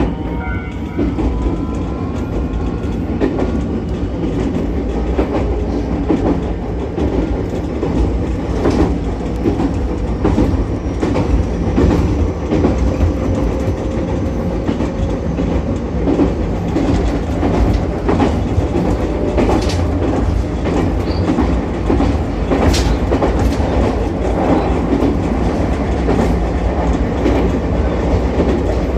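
Ichibata Electric Railway 7000 series electric railcar running on the line, a steady rumble with wheels clattering over rail joints. A faint motor whine rises slowly in pitch through the first half.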